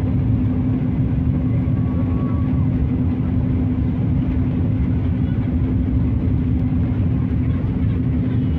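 Steady airliner cabin noise in flight: a constant drone of the jet engines and airflow with a steady low hum running through it.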